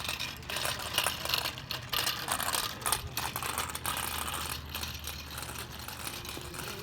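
Bicycle rattling and clicking as it is ridden, with irregular ticks and a couple of sharper knocks, about one second and three seconds in.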